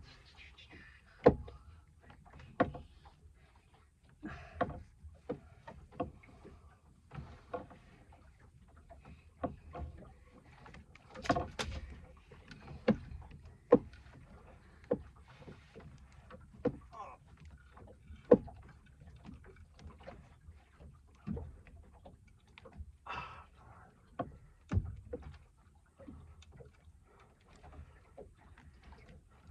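Irregular knocks and thumps in a small fishing boat, about one every second or two, the loudest near the start and about halfway through.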